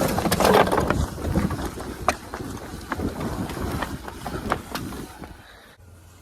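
Wind buffeting the microphone, with a low rumble and scattered short clicks and knocks, louder in the first second and fading away near the end.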